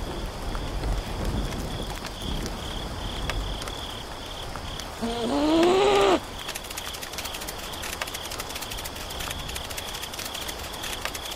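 Steady rain ambience with scattered drop-like ticks and a faint high pulsing chirp. About five seconds in, a short voice-like cry rises and falls in pitch, then cuts off.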